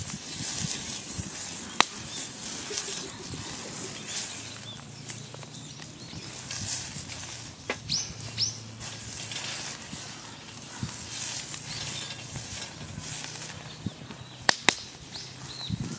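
Wood fire in a campfire grill crackling over a steady hiss, with a few sharp pops, the loudest near the end. A bird chirps twice about eight seconds in, and a low hum runs through the middle.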